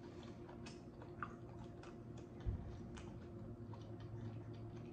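Close-miked chewing: soft, scattered wet clicks of a mouth working on food, with one low thump about halfway through.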